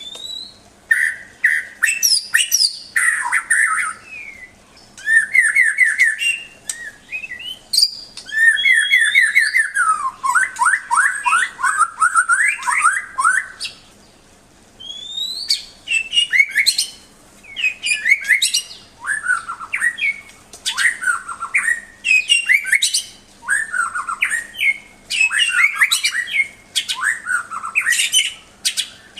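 White-rumped shama (murai batu) singing: a run of varied phrases of fast trills, rapidly repeated notes and rising whistles, broken by short pauses and one longer gap about halfway through.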